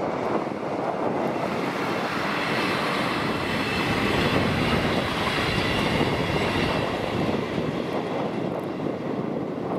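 A České dráhy Class 814 Regionova diesel railcar passes close by over a level crossing. The train noise swells to its loudest in the middle and then fades, with faint steady high tones while it is nearest.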